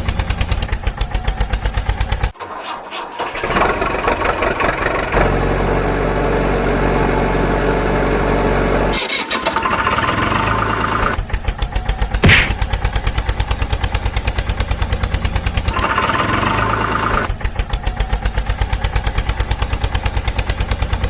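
Vehicle engine sounds, switching abruptly between a fast, even chugging and a steadier running hum several times, with short drop-outs in between.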